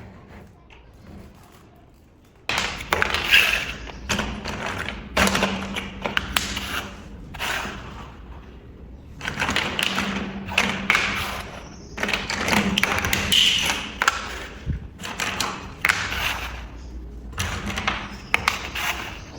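Plastic building bricks clattering, tapping and clicking in repeated bursts as pieces are handled and pressed together, starting a couple of seconds in.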